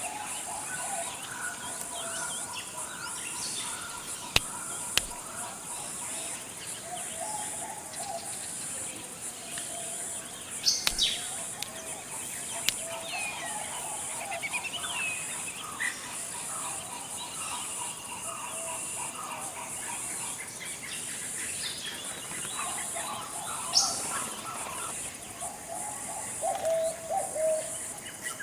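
Tropical forest ambience: several birds calling and chirping, some in low warbling phrases and some in short high chirps, over a steady high-pitched insect drone. A few sharp clicks stand out, around four to five seconds in and again near eleven seconds.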